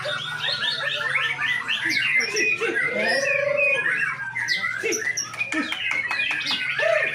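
Several caged white-rumped shamas (murai batu) singing at once, a dense tangle of overlapping loud whistles, trills and rapid chirps with no pause.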